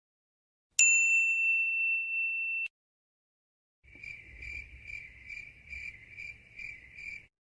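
A single bright ding that rings for about two seconds and fades, then, after a second of silence, the cricket-chirping sound effect, a steady pulsing chirp about two to three times a second, the stock cue for awkward silence.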